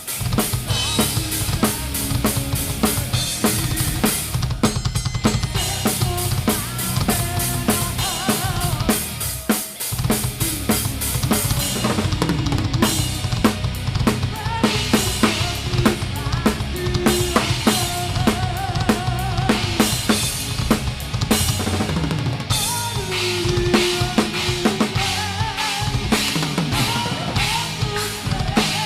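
Live band music recorded close to a Pearl Masters drum kit, the drums loudest: fast bass drum, snare and cymbal hits driving the song, with pitched instrument riffs underneath. About ten seconds in the low end drops out for a moment before the full band comes back in.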